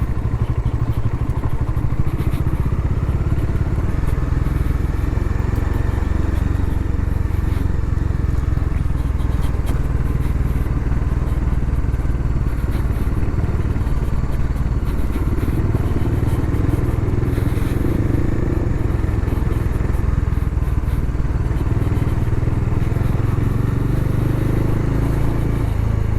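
Bajaj Dominar motorcycle's single-cylinder engine running steadily while riding, picked up by a microphone inside the rider's helmet.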